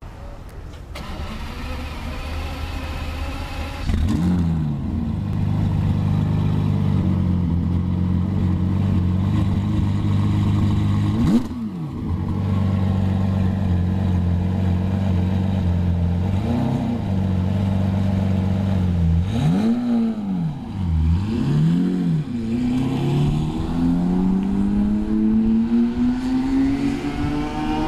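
Twin-turbocharged Lamborghini Murciélago V12 running at the tailpipes, its idle stepping up about four seconds in, with several quick throttle blips that rise and fall sharply. Near the end it pulls away, the engine pitch climbing steadily as it accelerates.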